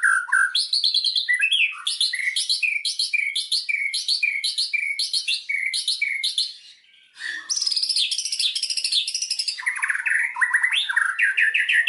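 White-rumped shama (murai batu) singing a varied song. It starts with a run of repeated short phrases, about two a second. After a brief break about seven seconds in comes a dense warble, and near the end a fast trill.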